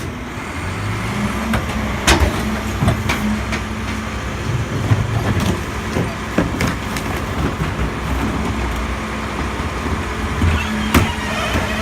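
Diesel engine of a Mack LEU garbage truck running steadily, with several sharp knocks and clanks scattered through.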